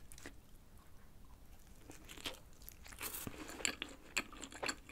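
A person biting into and chewing a slice of thin-crust pepperoni pizza close to the microphone. After a quiet first couple of seconds come faint, scattered crunches and mouth clicks.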